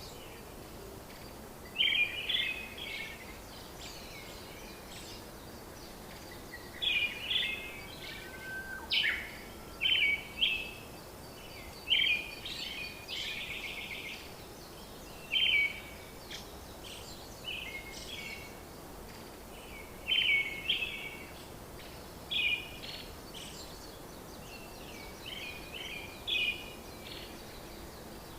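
Birds chirping in short repeated phrases every second or two, over a steady background hiss.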